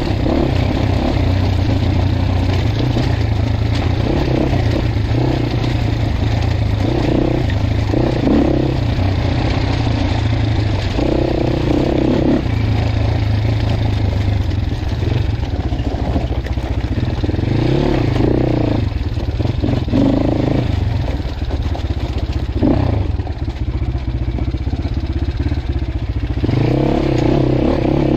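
Dirt bike engine being ridden over rough trail, its revs rising and falling again and again as the throttle is opened and closed.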